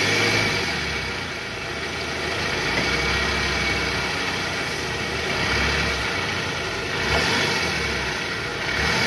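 Toyota Harrier's 2AZ four-cylinder engine running at a held light throttle in reverse with the AC on, its level dipping slightly and swelling again. It runs smooth with no growl from the belt tensioner: the new tensioner and balancer shaft have cured the roughness.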